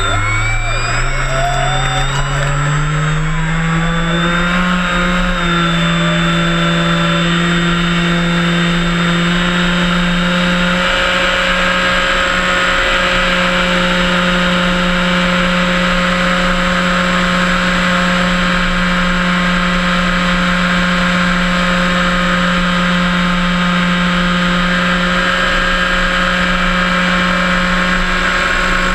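Electric motor and propeller of a HobbyKing Cessna 182 RC floatplane being throttled up, the hum rising in pitch over the first few seconds, then holding steady.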